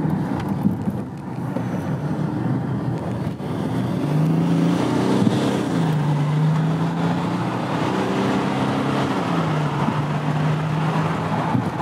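Mercedes OM642 3.0-litre V6 diesel in a Chrysler 300C, heard from inside the cabin, pulling under throttle with road noise. Its drone grows louder about four seconds in and shifts up and down in pitch. The swirl-flap motor fault has been bypassed, and the engine feels a lot more responsive, out of limp mode.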